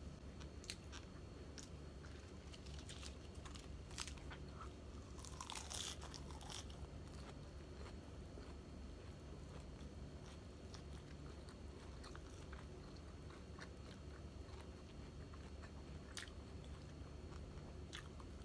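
A person chewing fried tilapia eaten by hand: faint chewing with small wet mouth clicks, and a louder, denser stretch of chewing about four to seven seconds in.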